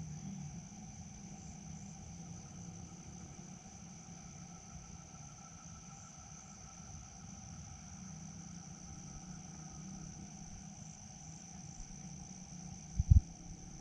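Crickets chirring steadily at a high pitch over a low background hum, with two loud, short low thumps close together near the end.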